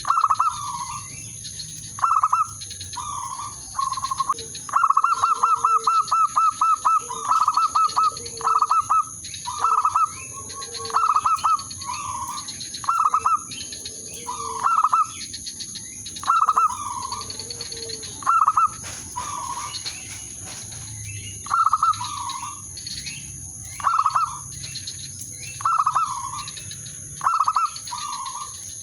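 Zebra dove cooing: short, staccato coo notes repeated every second or so, with a rapid run of about a dozen quick notes between about five and seven seconds in.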